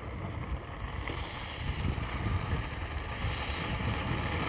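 Wind buffeting the microphone outdoors: an uneven low rumble that rises and falls, with a faint click about a second in.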